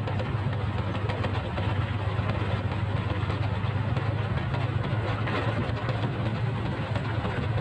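Motorcycle engine running steadily, a constant low hum with no revving.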